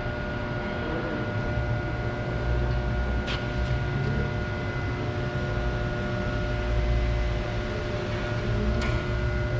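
Steady low machine rumble with a constant hum of several held tones, like a running engine or machinery, and two brief clicks.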